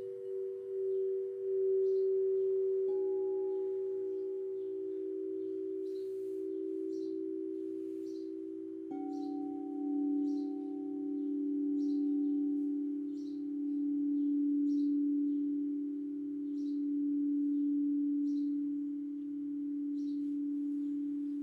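Singing bowls ringing in long, slowly wavering tones, with new bowls struck about three seconds in and again about nine seconds in. A bird chirps in short high notes about once a second behind them.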